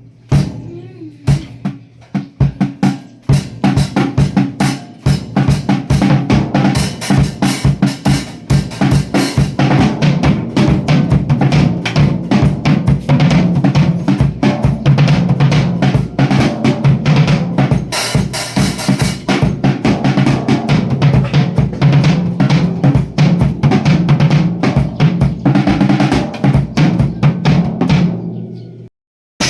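Music led by a drum kit playing a busy beat of bass drum and snare, over a steady low bass line; it cuts off suddenly about a second before the end.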